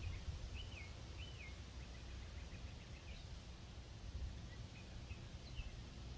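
Faint bird chirps: a few short rising-and-falling notes in the first second and a half, then a few more scattered through. Underneath is a low, steady rumble of wind on the microphone.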